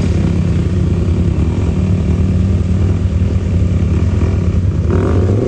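Off-road vehicle engine running steadily, a loud, even low-pitched drone with no change in speed.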